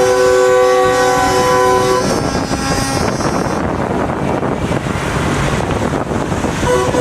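Semi-truck air horns sounding a long, chord-like blast that stops about two seconds in, followed by a steady rush of truck engine and road noise.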